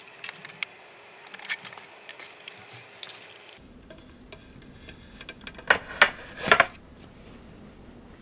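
Cutlery clicking and tapping against a dish, with a cluster of louder crunchy scrapes about six seconds in.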